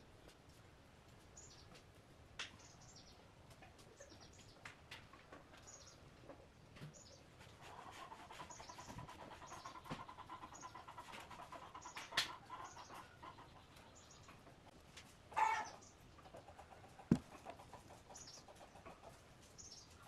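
Faint background of small birds chirping, short high chirps repeating throughout, with a louder short animal call about fifteen seconds in. A few light knocks of wooden slats being handled stand out near the middle and later.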